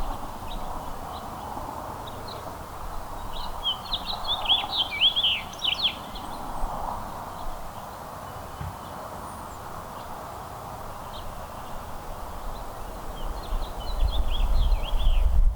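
Small backyard songbirds chirping in quick bursts of short, down-slurred calls, one cluster a few seconds in and another near the end, over a steady outdoor background hiss. A low rumble rises near the end.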